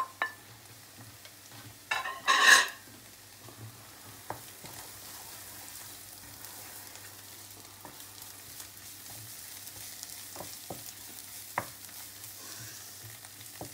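Onion and spice masala sizzling in a non-stick pan while it is stirred with a wooden spoon. There is a loud, brief scraping rasp about two seconds in, then a steady low sizzle with a few light knocks of the spoon against the pan.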